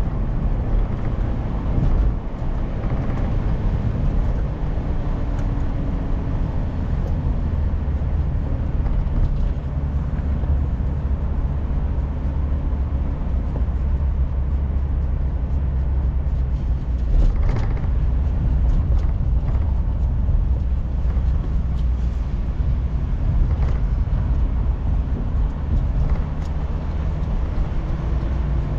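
Inside a moving car: a steady low rumble of engine and tyre noise, with a few faint clicks about two-thirds of the way through.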